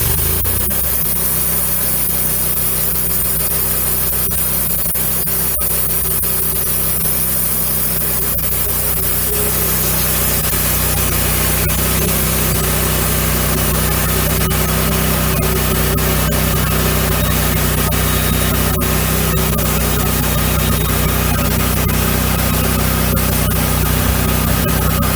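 Wood-Mizer LX150 bandsaw sawmill's engine running steadily while warming up, with a higher hiss joining in about nine seconds in.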